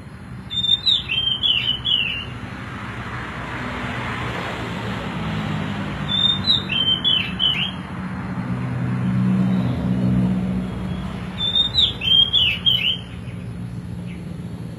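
Oriental magpie-robin (kacer) calling: a short phrase of quick, sharp chirps, given three times about every five seconds. Under it runs a steady low rumble of vehicles that swells twice.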